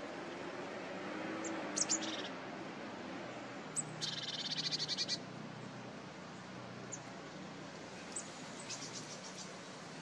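Birds calling: a few sharp high calls about two seconds in, a quick run of repeated high notes around four to five seconds, and a shorter run near the end, over a steady background hiss.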